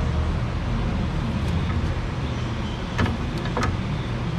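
Pry bar levering on Jeep suspension parts: two sharp metallic clicks a little over half a second apart about three seconds in, over a steady low rumble.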